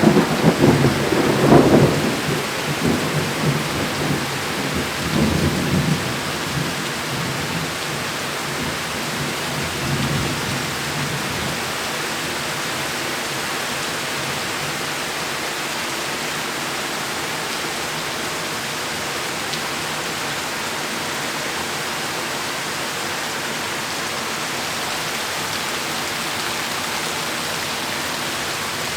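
Thunder rumbling and dying away over the first few seconds, with a faint second rumble a little later, over heavy rain falling steadily.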